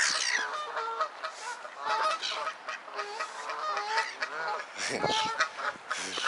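A flock of waterfowl, geese among them, calling with many short overlapping calls. A low rumble comes in about five seconds in.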